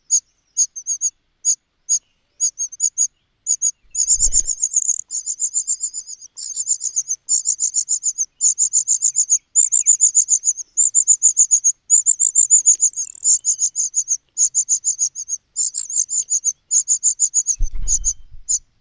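Nestlings begging for food: rapid runs of thin, high-pitched cheeps, sparse at first and nearly continuous from about four seconds in.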